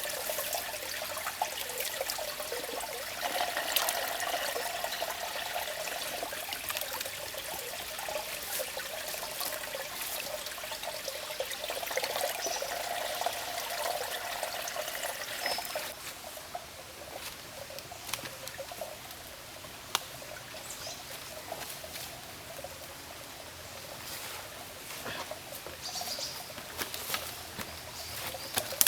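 Water running in a steady trickle that stops abruptly a little past halfway; after that, quieter scattered small clicks.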